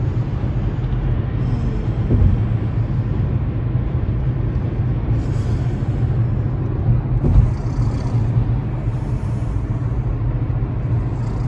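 Steady low rumble of a car driving in traffic, heard from inside the cabin, with a couple of brief bumps about two and seven seconds in.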